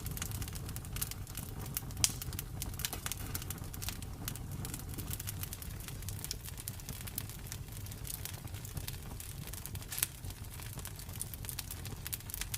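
Campfire burning, a steady low rumble of flames with frequent small crackles and a couple of louder wood pops, one about two seconds in and one near ten seconds.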